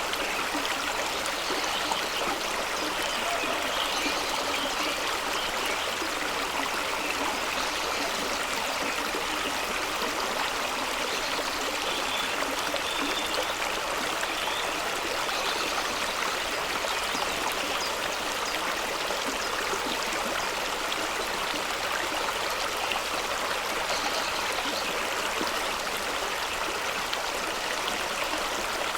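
Fast-running stream rushing and splashing over rocks in a steady, unbroken wash of water noise.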